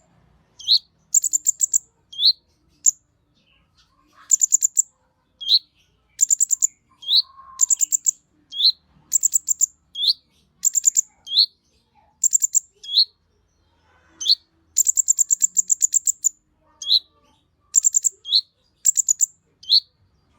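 Konin bird singing: repeated phrases of a fast, very high ticking trill, each followed by a short upward-slurred whistled note, about one phrase a second.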